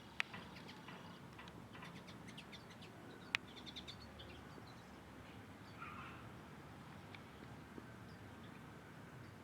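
Small birds chirping faintly while feeding, with short high chirps scattered throughout and a quick run of chirps about three and a half seconds in. Two sharp clicks stand out, one right at the start and one about three seconds in.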